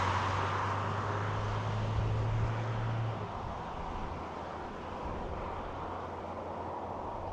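Isuzu D-Max's 3.0-litre 4JJ turbo-diesel four-cylinder droning at a steady engine speed, then easing off about three seconds in. Road and wind noise fade as the ute slows.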